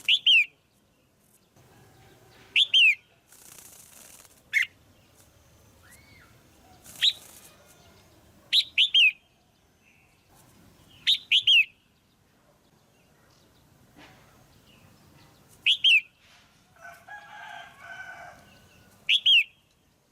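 Female red-whiskered bulbul calling: short, sharp, loud calls given singly or in quick pairs and threes every two to three seconds. A few brief rustling noises come between the calls.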